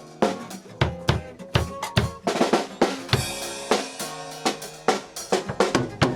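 Drum kit being played with kick, snare and hi-hat hits in a loose groove, with some held pitched notes from another instrument underneath, as during a band soundcheck.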